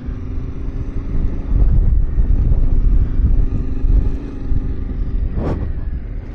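Yamaha Ténéré 700's parallel-twin engine running steadily on a rutted dirt trail. A heavier low rumble swells from about a second and a half in to about four seconds, and there is one brief sharp sound near the end.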